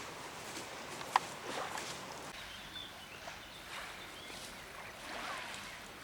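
Calm Black Sea water washing on a rocky shore, a steady hiss, with one sharp click about a second in.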